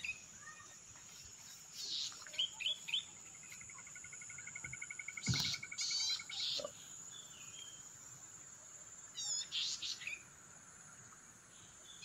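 Wild birds calling in forest-edge scrub: scattered short chirps and a rapid even trill lasting a few seconds, over a steady high-pitched insect drone.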